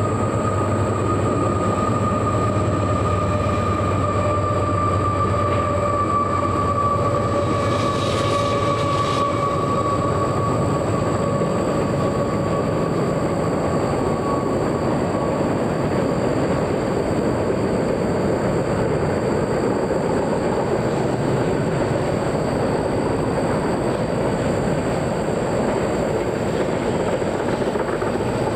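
Train rolling past, a long steady rumble and clatter of wheels on rail. A high squealing tone rides over it and fades out about halfway through.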